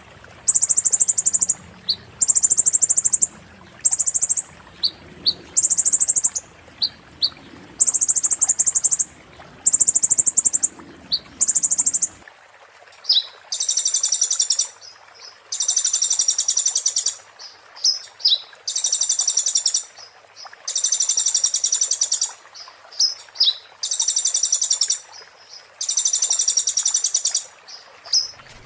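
A konin songbird singing a string of very high-pitched, rapid trills, each about a second long, repeated with short gaps. About halfway through, the trills become longer and fuller, and a faint low background hum stops.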